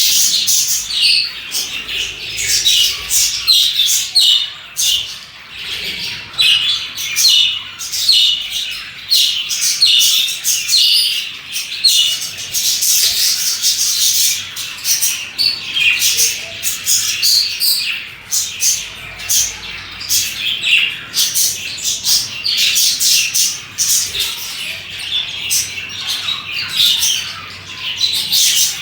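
Several budgerigars chirping and chattering at once, a continuous busy flock warble of short high chirps and occasional squawks.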